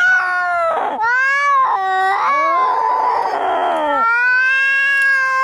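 Angry cats yowling in a fight: drawn-out wavering caterwauls that rise and fall in pitch, with a harsher, hissing stretch about halfway through.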